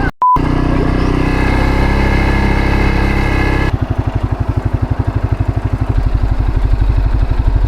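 CFMOTO CForce 600 ATV engine running at steady revs. About four seconds in the revs drop and it settles into a throbbing idle with about ten firing pulses a second.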